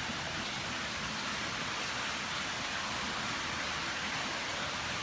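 Steady rush of running water flowing through a cave.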